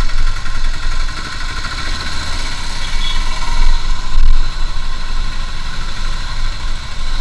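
Motorcycle running along a road while being ridden, with a continuous low rumble.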